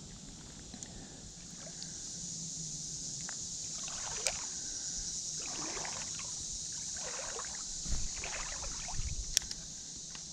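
Creek water sloshing and swishing four or five times, about every second and a half, over a steady high hiss, with a couple of sharp clicks.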